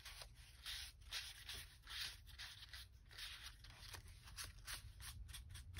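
Faint rustling and scraping of paper handled on a table, in many short strokes, as journal pages are worked and pressed while being glued.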